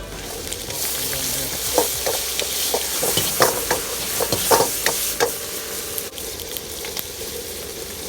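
Food sizzling in a hot wok as it is stir-fried, with a few sharp knocks of the utensil against the wok between about two and five seconds in.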